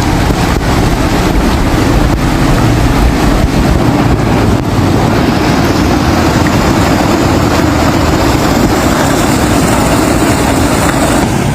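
Floodwater rushing in a loud, steady torrent, with wind buffeting the microphone.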